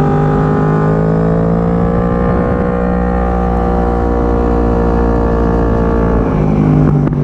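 Yamaha R1 motorcycle engine running at steady, moderate revs, its pitch rising gently and easing back, then cut off abruptly.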